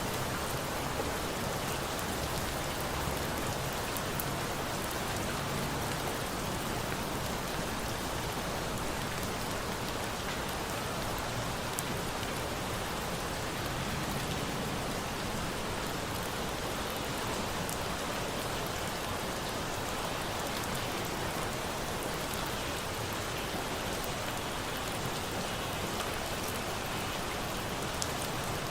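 Steady rain falling, an even hiss of drops, with a few faint sharp ticks here and there.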